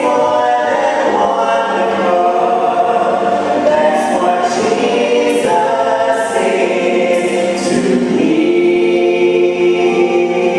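A church choir or congregation singing a hymn in unison and harmony, steady and sustained.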